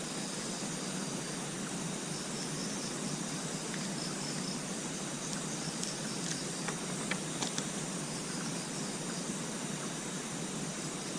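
Night outdoor ambience: a steady hiss with insects chirping continuously at a high pitch, and a few faint clicks about two-thirds of the way through.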